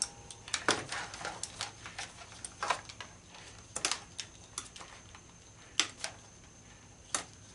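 Irregular light clicks and taps from tools and small parts being handled during disassembly work, about one every half second to second, a few sharper than the rest.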